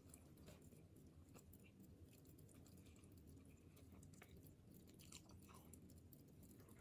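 Faint chewing of a mouthful of cheeseburger: soft, irregular wet mouth clicks over a low steady room hum.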